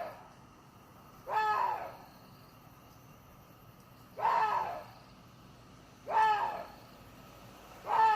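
Water deer calling: four short cries, each about half a second, spaced one and a half to three seconds apart.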